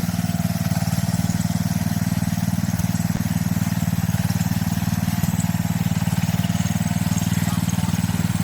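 Small garden-tractor engine running steadily with an even, fast pulse.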